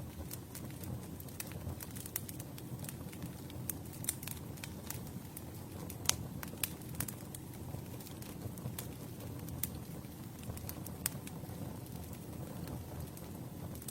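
Campfire burning: wood crackling and popping irregularly over a low, steady rumble of flames.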